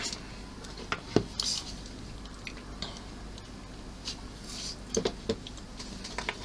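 Small plastic model-kit parts and tools being handled on a workbench: a few light clicks and taps about a second in, with soft rustling later, over a low steady hum.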